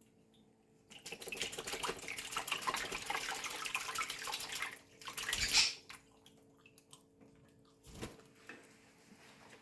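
Water splashing as pet parrots bathe: a run of splashing and spraying for about four seconds, a louder splash about five seconds in, then a few small scattered splashes.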